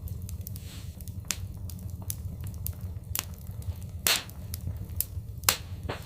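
Wood fire in a fireplace crackling: irregular sharp pops and snaps over a steady low rumble, with two louder pops about four and five and a half seconds in.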